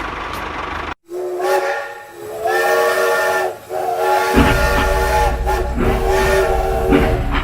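A horn sounding a multi-note chord in several blasts after an abrupt cut, with a steady low rumble joining about four seconds in.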